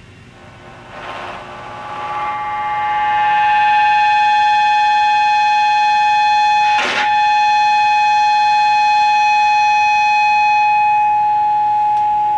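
Distorted electric guitar holding sustained tones, several pitches swelling in over the first few seconds and then ringing on steadily. A short harsh burst of noise cuts through about seven seconds in.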